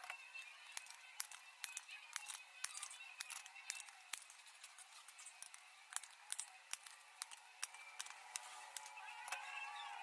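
Sharp, irregular clicks and snips, a few a second, from hand work on tin-plate.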